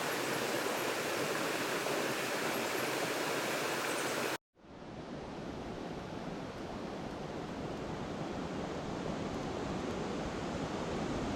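Steady rushing of running water. A little over four seconds in it cuts out for an instant and returns deeper and quieter, slowly building again.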